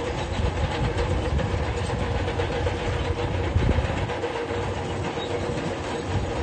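Heavy diesel earthmoving machine running steadily, with the clank and rattle of crawler tracks over a low engine rumble.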